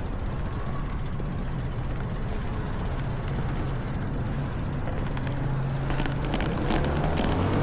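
Strong wind buffeting the microphone as a steady low rumble over street noise, with a few sharp clicks about six seconds in and the rumble growing louder near the end.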